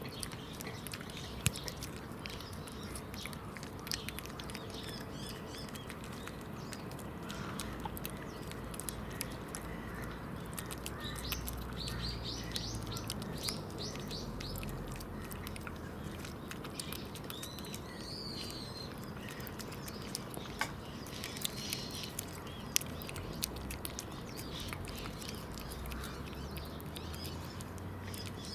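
Small birds chirping: a quick run of high chirps about twelve seconds in and more around twenty-one seconds, with scattered light clicks over a steady outdoor background.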